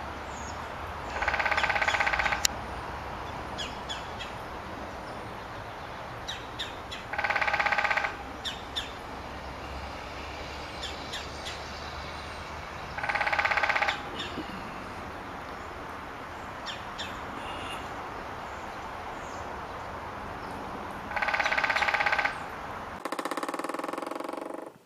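Woodpecker drumming: four rapid drum rolls of about a second each, roughly six seconds apart, with faint chirps of other birds between them. Just before the end a second, denser roll comes from a different recording.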